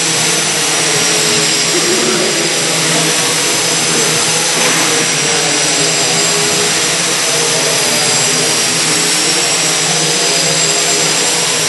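Several micro radio-controlled model airplanes flying at once, their small electric motors and propellers making a steady high-pitched whine of several tones that waver slightly as the planes race around the pylons.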